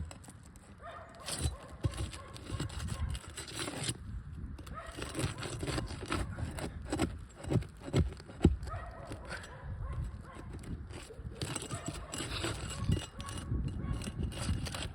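Irregular knocks, taps and scrapes of a flat bar working under a roof shingle to pry its nails out, with a few sharper strokes around the middle.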